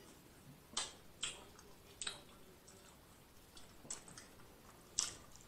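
Close-miked eating sounds: a few short, wet mouth smacks and clicks while chewing a bite of seasoned boiled egg.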